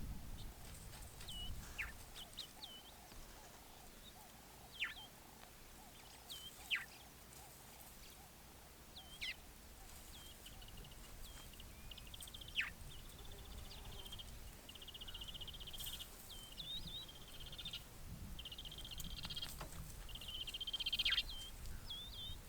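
Birds calling in the open: short hooked chirps and quick downward-sweeping whistles, the sharpest about five, seven and twelve seconds in, joined by buzzy trills in the second half.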